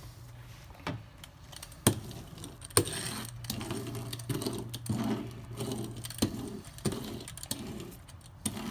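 A fiberglass laminating roller is worked back and forth over resin-wet chopped strand mat to press out air bubbles. It gives a run of short rolling strokes about twice a second, with sharp clicks and rattles now and then.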